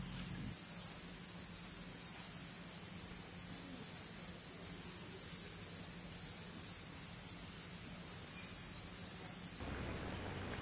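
Insects trilling, cricket-like: a steady high-pitched trill with a second, higher chirp pulsing about once a second, over a low steady hum. It cuts off suddenly shortly before the end.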